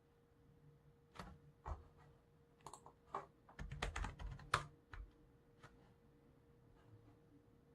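Computer keyboard typing: a burst of keystrokes bunched about one to five seconds in, then a few scattered clicks, over a faint steady hum.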